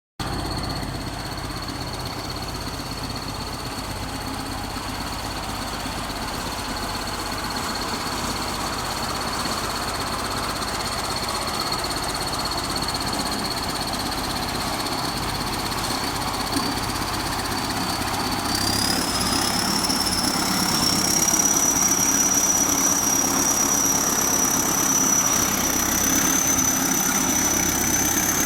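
ChTZ T-170 crawler bulldozer's diesel engine running steadily with a thin high whine over the rumble. About 18 seconds in, the whine jumps up in pitch and the engine grows louder.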